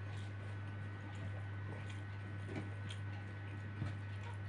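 A man chewing a mouthful of rice and fried duck with his mouth closed, with a few soft wet smacks, while his fingers squish through the rice; a steady low hum runs underneath.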